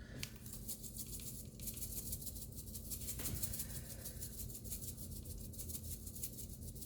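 A shaker of crushed red pepper flakes being shaken over a pot, a fast continuous rattle of flakes against the container.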